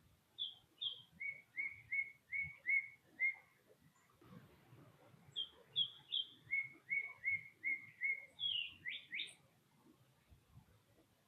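A songbird singing two song phrases. Each opens with two high notes followed by a run of about six lower, evenly spaced slurred notes, and the second phrase ends with a few quick rising notes.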